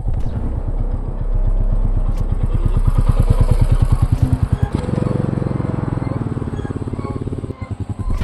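Single-cylinder Royal Enfield motorcycle engine running, its exhaust beating in quick, even pulses; the note changes about five seconds in.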